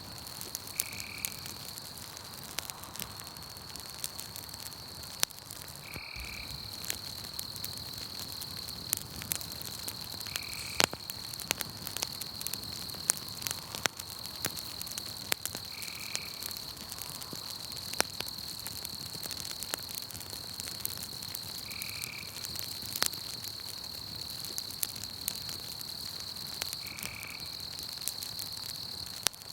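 Campfire crackling with frequent sharp pops, over a steady high-pitched night chorus and a short call repeating about every five seconds.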